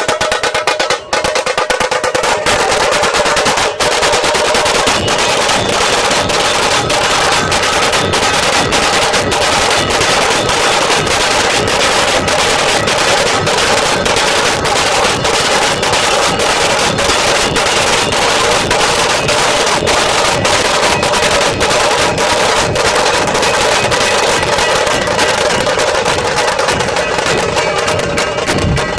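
Nashik dhol drumming: a group of dhol drums, with sharp tasha strokes over them, beating a fast, unbroken rhythm at full volume.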